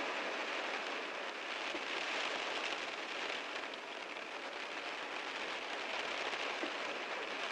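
Heavy rain drumming steadily on a car, a dense even hiss of countless drops with faint individual taps.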